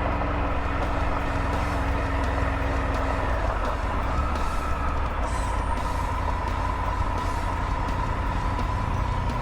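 Triumph Tiger 900 GT's three-cylinder engine running as the motorcycle is ridden, heard as a steady low rumble. A steady thin whine joins about four seconds in.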